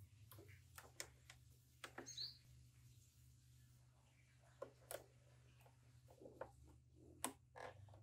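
Near silence: a few faint clicks of the scooter's handlebar switch and start button being pressed, with no starter motor cranking, because the SYM Jet Power 125 has no power supply. A faint low hum runs underneath, and a faint chirp comes about two seconds in.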